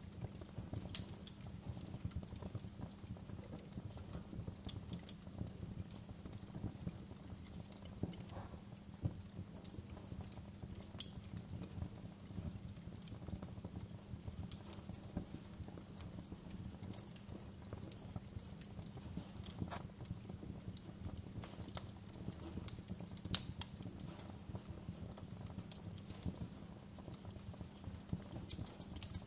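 Wood fire crackling in a fireplace: a steady low rumble of flames with frequent small crackles, and two sharper pops, about 11 seconds in and again near 23 seconds.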